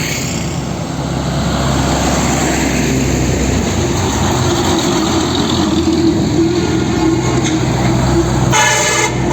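Heavy truck running with a steady engine drone that grows stronger, then a horn sounds suddenly near the end.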